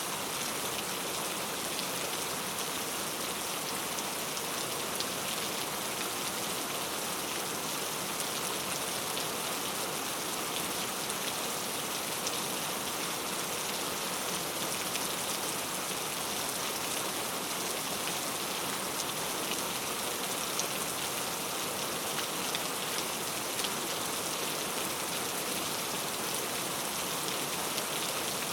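Steady rainfall, a dense even hiss of drops pattering on a surface, with scattered individual drop ticks.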